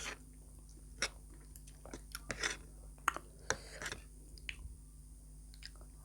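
Close-up eating sounds: a person chewing with wet mouth smacks and short sharp clicks, a few louder ones about a second in and around the middle.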